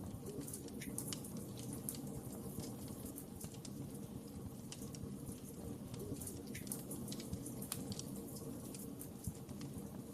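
Wood fire crackling in a fireplace: a steady low rush of flame with frequent short, sharp pops and snaps scattered throughout.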